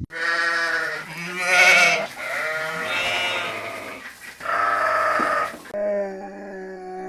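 Livestock bleating: about five drawn-out calls in a row, each around a second long, the second one the loudest.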